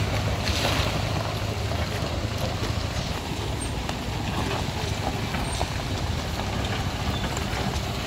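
Passenger MPV engines running as the cars climb a steep, rutted dirt slope one after the other: a steady low drone that eases about a second in, under a continuous noisy wash.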